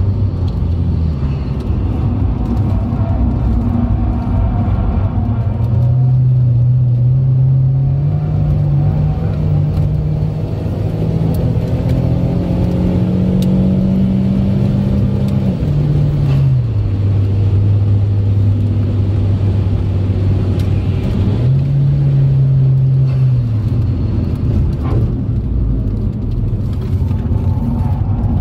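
Turbocharged Saab engine heard from inside the car under hard acceleration on a race track: the revs climb for several seconds up to high rpm with boost building, fall away sharply about halfway through as the driver lifts off and brakes, rise and fall briefly again, and climb once more near the end. Steady road and wind noise runs underneath.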